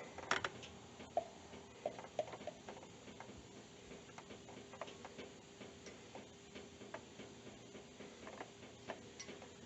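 Quiet hand work on the mower's stump-jumper mounting: faint, scattered sharp clicks and small taps at irregular intervals, over a faint steady hum.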